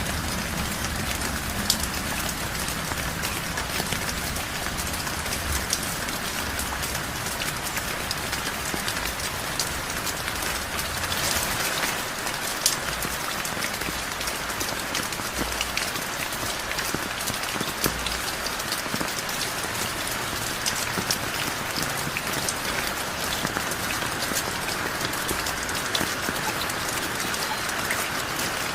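Heavy rain falling steadily, a dense hiss of drops with scattered sharper drip hits.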